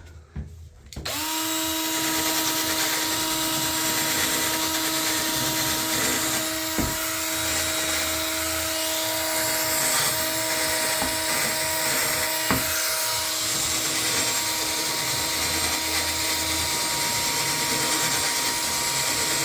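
Power drill running steadily at constant speed, starting about a second in, as pipe threads are cleaned up, with two sharp knocks partway through.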